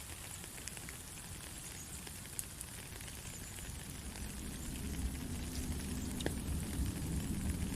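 Steady rain falling, an even hiss with scattered small drop ticks. A low rumble builds underneath through the second half.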